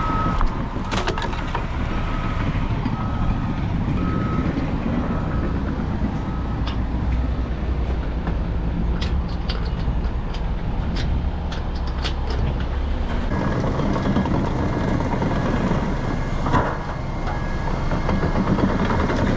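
Heavy truck engine running while a back-up alarm beeps about once a second, fading out before the middle; another back-up alarm at a slightly higher pitch starts beeping about two-thirds of the way in. Scattered knocks and clatters sound over the engine.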